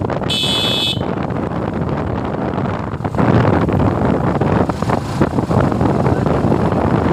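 Wind rushing over the microphone with road and engine noise from a Suzuki Gixxer motorcycle on the move, louder from about three seconds in. A vehicle horn toots briefly near the start.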